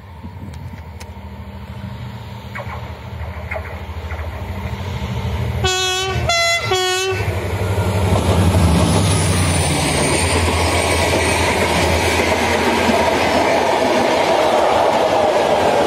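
A Renfe locomotive approaching with its engine humming louder and louder, sounding its horn in three short blasts about six seconds in. It then passes close, followed by the rattle and clatter of a train of vintage wooden coaches and old freight wagons rolling over the rails.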